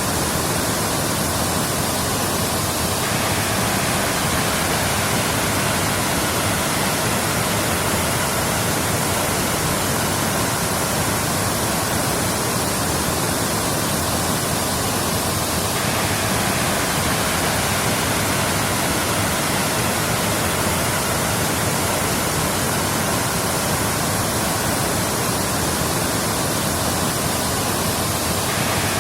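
Waterfall rushing in a steady, loud, unbroken roar of falling water, with a slight change in its hiss about every thirteen seconds.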